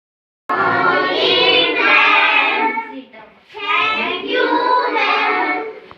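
Young voices singing two short phrases, starting about half a second in, with a brief pause about three seconds in.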